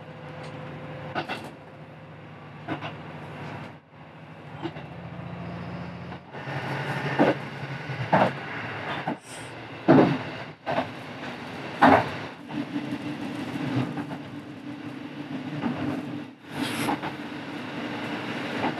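Diesel railcar running, heard from inside the cab end: a steady engine hum with sharp knocks from the wheels passing over rail joints and points. The engine note steps up about twelve seconds in as the train approaches a station.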